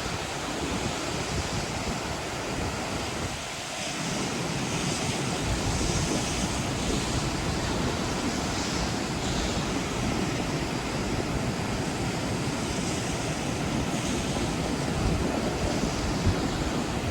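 Steady rush of river water at a weir, with wind buffeting the microphone.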